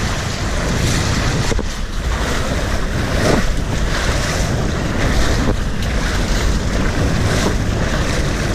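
Loud rushing, splashing water with wind buffeting the microphone, as on a water-park slide ride, with a few brief stronger splashes or bumps.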